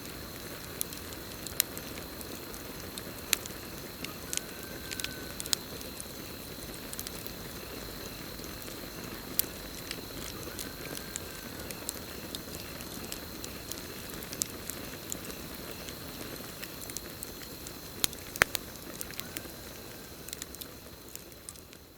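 Campfire burning with a steady low rush and scattered sharp crackles and pops, over a steady high chirping drone of crickets. It fades out near the end.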